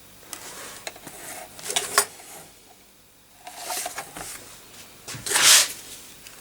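Scraping and rasping handling noises with a few sharp clicks, in three bursts, the loudest about five and a half seconds in, as the motherboard and tools are worked over the solder pot to free the connector.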